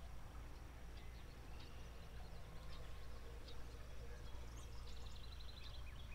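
Small birds chirping faintly, with a rapid run of chips near the end, over a steady low background rumble.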